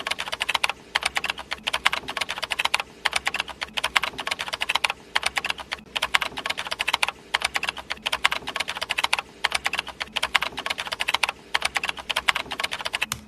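Rapid computer-keyboard typing: quick runs of key clicks broken by short pauses, cutting off abruptly near the end.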